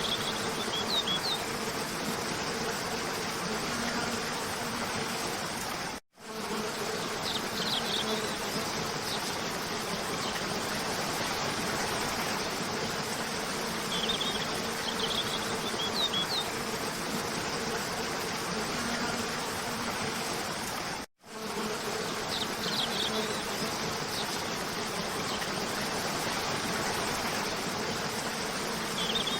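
Cascading waterfall rushing steadily, with short high bird chirps a few times and a faint steady buzz underneath. The sound cuts out completely for an instant twice, at the seams of a looped recording.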